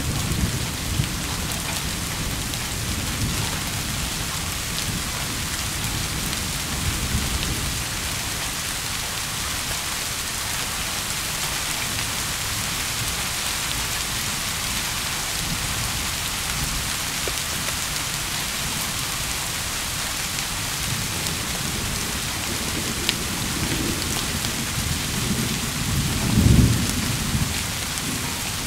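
Steady heavy rain with low rolling thunder underneath, and a louder roll of thunder near the end.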